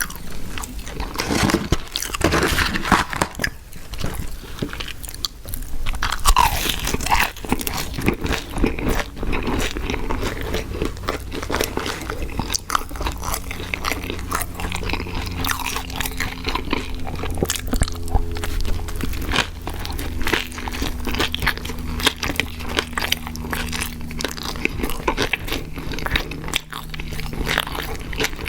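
Close-miked biting and chewing of crunchy fast food: a dense, continuous run of crunches. A faint steady low hum joins underneath about halfway through.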